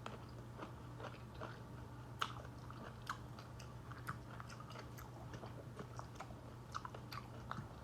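Close-miked chewing of a mouthful of food: many small, irregular wet mouth clicks, with a steady low hum underneath.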